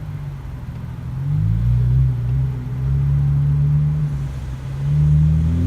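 BMW 335i's turbocharged 3.0-litre inline-six running through a muffler-deleted exhaust with the stock flaps. The car accelerates with the engine note climbing, eases off briefly near the end, then revs up again.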